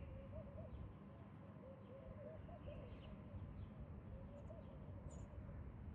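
Birds chirping faintly, with a pair of sharp high chirps about five seconds in, over a faint wavering hum and low background rumble.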